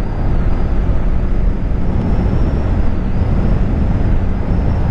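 Motorcycle riding along: engine and road noise under heavy wind rumble on the microphone, steady throughout.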